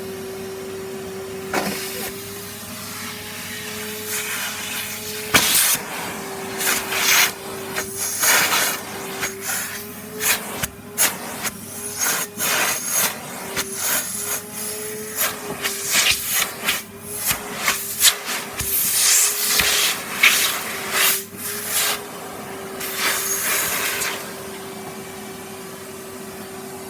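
Henry canister vacuum cleaner running with a steady motor whine, its pitch wavering slightly as the nozzle works. From about two seconds in until near the end, the nozzle scrapes and rubs on the floor and sucks up bits of debris in many irregular bursts.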